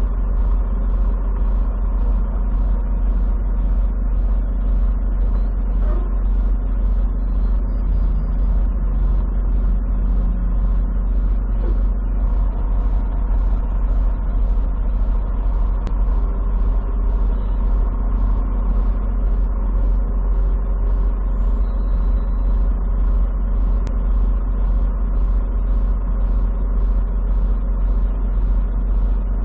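Steady drone of a semi truck driving, heard from inside the cab: a constant deep engine and road rumble with a faint regular pulsing hiss about one and a half times a second.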